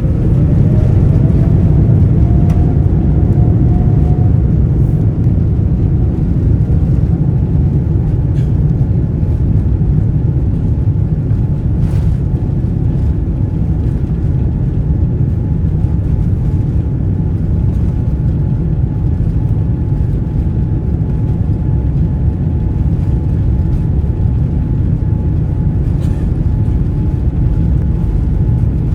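Boeing 787-9 engines spooling up to takeoff thrust, heard from the cabin. A whine rises over the first few seconds, then a loud, steady rumble of the takeoff roll continues, with a couple of faint clicks.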